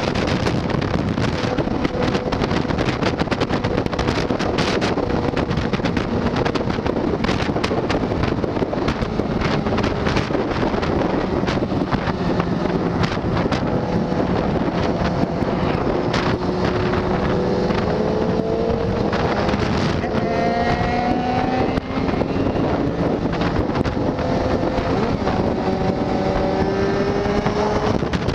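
Motorcycle riding at road speed: heavy wind noise on the microphone over the engine's steady running, with the engine note rising in pitch several times in the second half as it accelerates.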